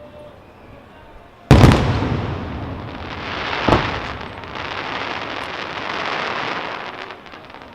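Aerial firework shells bursting: a loud bang about a second and a half in, then a second sharp report a couple of seconds later, with a dense crackling wash between them that fades away near the end.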